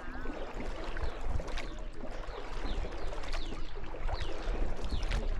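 Small boat on the water: a steady wash of water noise with a low rumble.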